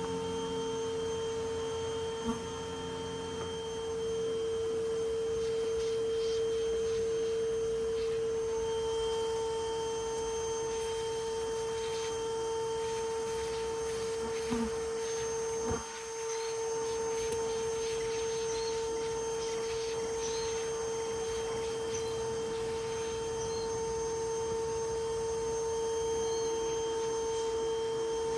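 Motor of a no-kill bee vacuum running with a steady, high, pure whine, dipping briefly about halfway through, with a few small clicks.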